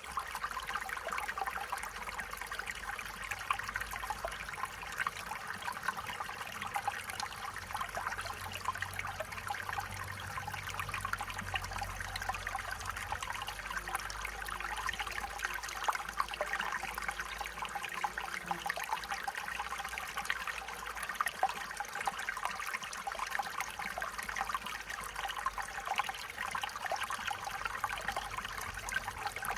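Stream water flowing and trickling steadily over rocks, a continuous babble with many small splashes.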